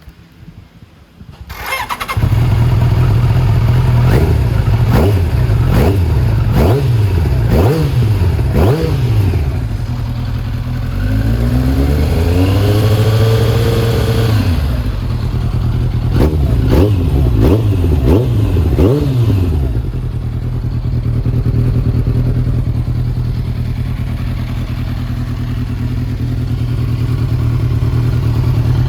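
Kawasaki ZZR1100's inline-four engine started through a MUZZT aftermarket full exhaust, catching about two seconds in, then blipped through a string of short revs, one longer rev, more short revs, and settling to a steady idle for the last several seconds.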